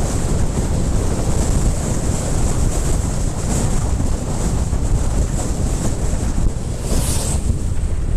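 Wind buffeting a helmet-mounted camera's microphone while riding: a steady loud rumble, with a brief louder hiss about seven seconds in.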